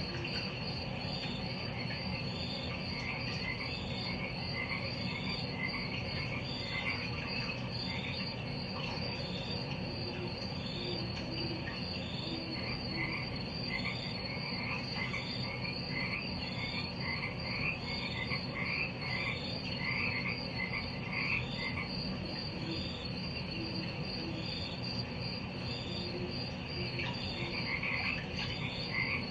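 Night chorus of insects and frogs: a steady high pulsing chirr with a short chirp repeating about once a second, and spells of rapid croaking trills that come and go, over a low steady background hum.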